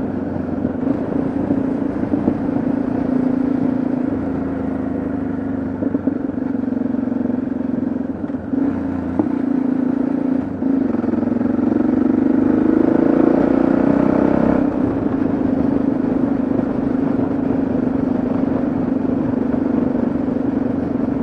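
Motorcycle engine running under way at road speed: a steady engine note that climbs a little for a couple of seconds past the middle, then drops back suddenly, as when the throttle is eased off.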